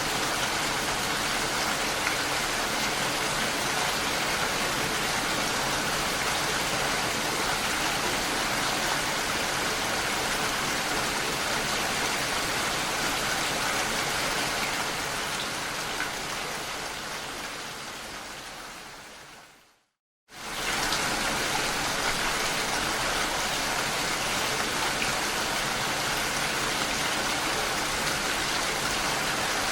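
Steady rain falling, an even hiss. About two-thirds of the way through it fades away over several seconds, breaks off into a moment of silence, then starts again suddenly at full level.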